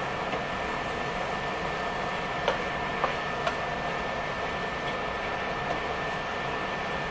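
Steady whir of a portable stovetop burner's built-in fan, with a constant high tone over the noise. A few light clicks, like a utensil tapping a pan, about two and a half, three, three and a half and nearly six seconds in.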